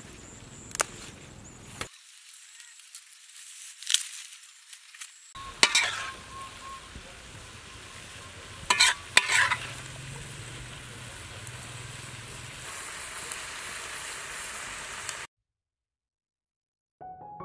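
Vegetables stir-frying in a wok: a steady sizzle with a few sharp clinks of a spatula against the pan, the sizzle growing stronger before it cuts off suddenly about two seconds before the end. Soft piano music starts at the very end.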